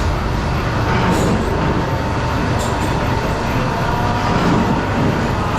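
Loud, steady running of workshop machinery, with a faint steady whine and a few sharp clicks or knocks.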